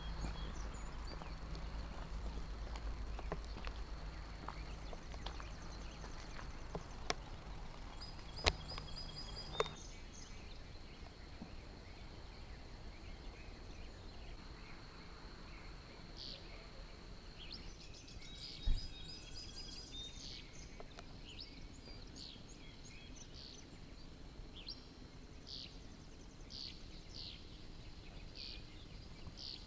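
Songbirds singing outdoors: a thin high note held through the first half, trills in the middle, and short chirps about once a second near the end. A low rumble in the first seconds fades out, and a few sharp clicks come in the first ten seconds, with one more near the middle.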